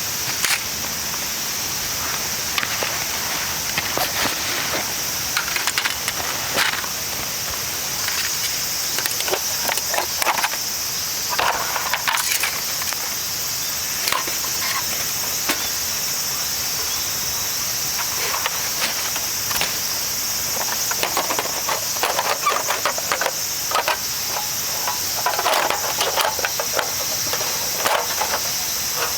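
Scattered knocks and clatters of things being handled, irregular and short, over a steady high-pitched chorus of summer insects.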